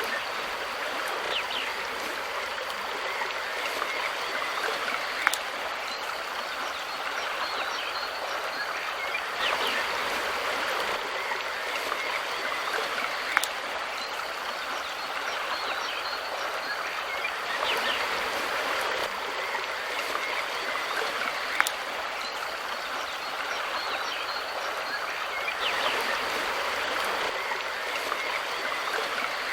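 Mountain river flowing steadily over rocks, its rushing swelling slightly about every eight seconds. A sharp click comes three times, about eight seconds apart.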